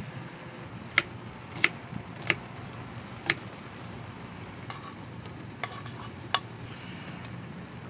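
Four sharp clinks of hard objects knocking together, then light scraping and a last clink, over a steady low hum.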